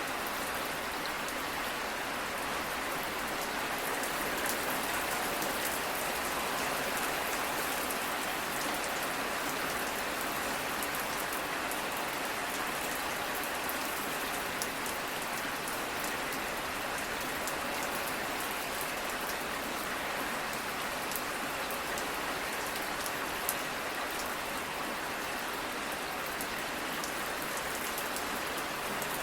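Steady rain falling, an even hiss with many fine drop ticks and a few slightly louder drops.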